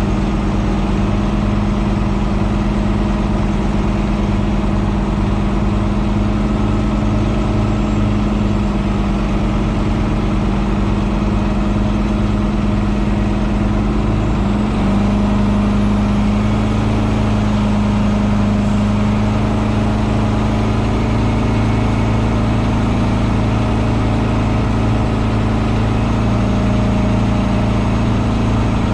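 Semi truck's diesel engine running steadily, with a brief shift in pitch about halfway through.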